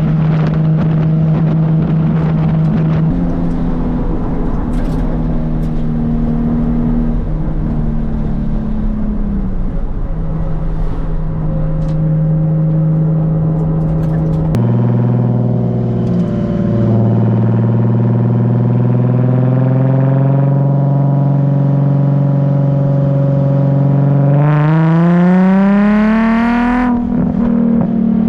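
Nissan 350Z's 3.5-litre V6 through an aftermarket ISR Performance exhaust, running at steady revs in two back-to-back recordings that change abruptly about halfway through, then revving up with a rising pitch near the end.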